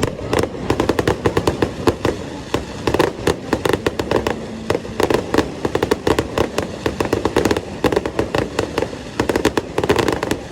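Fireworks display going off: a dense, rapid string of bangs and crackles, many per second, with only brief lulls.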